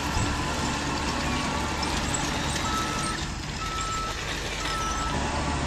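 RC construction vehicle running with a steady engine drone, its reversing beeper sounding three times about a second apart in the second half.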